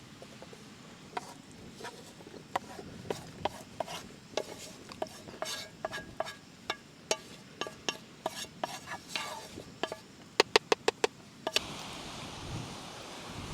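Metal cutlery clinking and scraping against a metal cooking pan, in short irregular strokes. About ten seconds in comes a quick run of six sharp taps, and then a steady rushing noise rises near the end.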